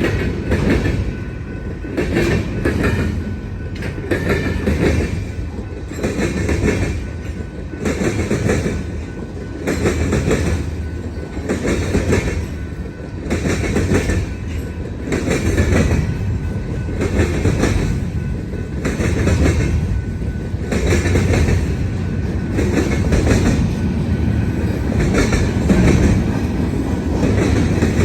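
Freight cars of a long Union Pacific manifest train rolling past, with the wheels clattering over the rail joints and the diamond crossing in a rhythm of about one clatter a second over a steady low rumble.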